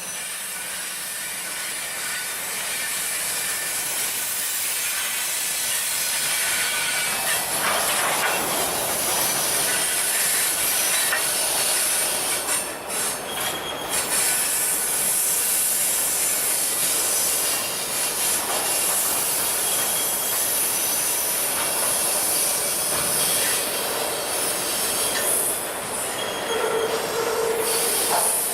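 Freight train's cars rolling past on steel rails, the wheels squealing against the rails, with a steady rumble and hiss that builds over the first few seconds and then holds.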